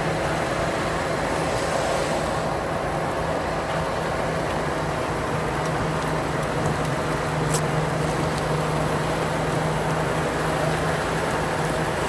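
An engine running steadily at a constant speed, with a low hum under a broad mechanical noise.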